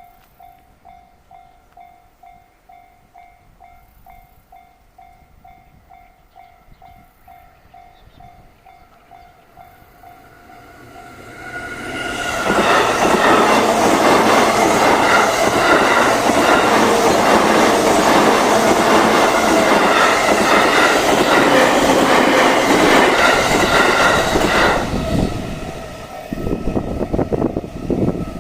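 Japanese level-crossing warning bell dinging steadily, about two rings a second. About eleven seconds in, a 15-car E231/E233-3000 series electric commuter train rushes through, its wheels clattering over the rail joints. The train noise drops off sharply about twenty-five seconds in.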